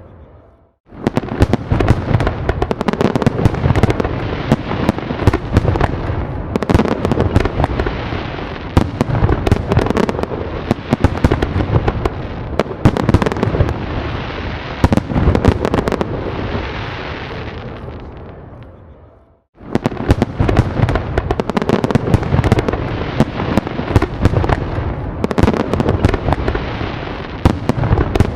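Fireworks going off in a dense barrage of bangs over continuous crackling. The barrage breaks off to silence briefly about a second in, and fades away to silence a little before two-thirds through, then starts again abruptly.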